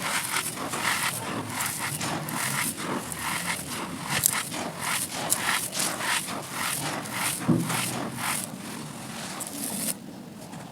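Dry pressed red dirt chunks being crushed and crumbled, a dense gritty crunching and crackling made of many small breaks. It stops suddenly near the end.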